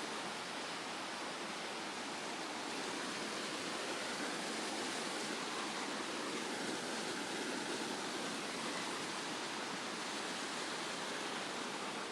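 Steady rush of water in a mountain stream, a constant even hiss with no breaks.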